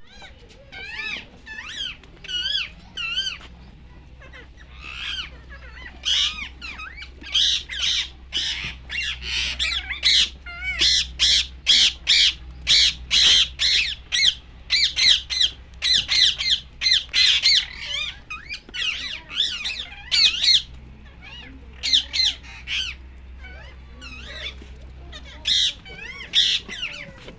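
A bird squawking over and over in short, wavering harsh calls. The calls come in bouts, sparse at first and then rapid and close together through the middle, over a steady low hum.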